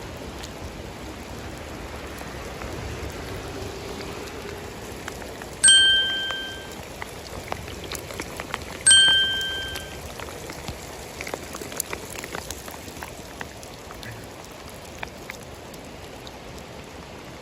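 Steady rain with scattered drop ticks. About six seconds in and again three seconds later comes a loud, bright ding, each ringing on for about a second as it fades.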